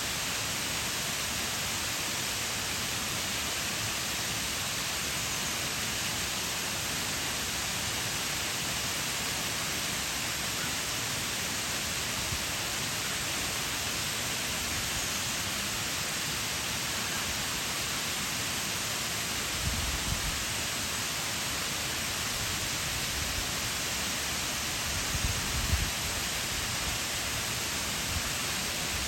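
Waterfall pouring steadily, an even rushing hiss. A few brief low bumps break in about two-thirds of the way through and again near the end.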